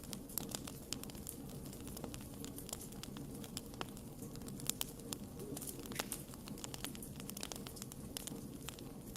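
Wood fire burning: irregular sharp pops and crackles over a steady low rumble of flames, with a few louder pops about half a second, nearly five and about six seconds in.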